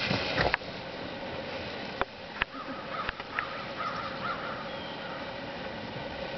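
A noisy burst that cuts off abruptly about half a second in, then a quick series of short bird calls between about two and four and a half seconds in, with a few sharp clicks.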